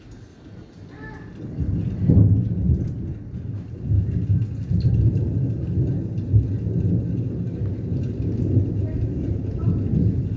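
Thunder rumbling: it builds about a second and a half in, is loudest at about two seconds, then rolls on in waves, over the hiss of rain falling.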